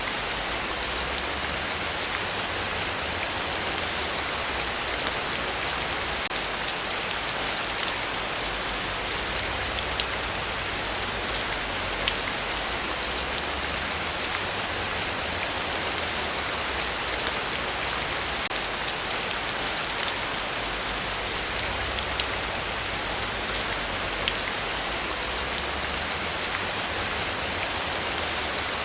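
Heavy, steady rain falling on a forest, a dense hiss full of fine drop patter with no thunder.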